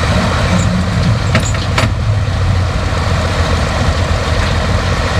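A tractor engine runs steadily and loudly at a tractor pull, with two short sharp clicks about a second and a half in.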